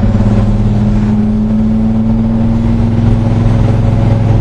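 Rebuilt Chevrolet 396 big-block V8 of a 1966 Chevelle SS running on the road at a steady engine speed, its note holding even.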